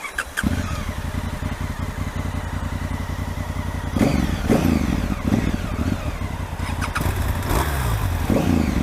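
A motorcycle engine starts about half a second in and runs with a steady low rumble, then is revved up several times in quick rises and falls from about four seconds in.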